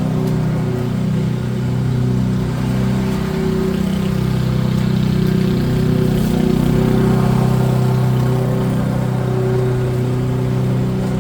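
Small petrol engine of garden machinery running steadily under load, its pitch wavering slightly as the work varies.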